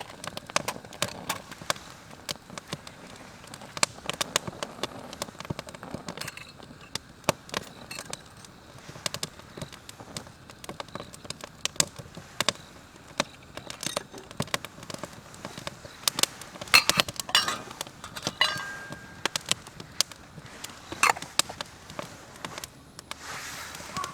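Wood campfire crackling and popping, with irregular sharp snaps, and a brief high whistle about three-quarters of the way in.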